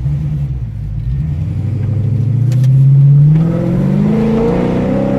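Straight-piped Chrysler 300 SRT-8 Hemi V8 exhaust accelerating away from a stop, rising in pitch, easing briefly about three seconds in, then climbing again.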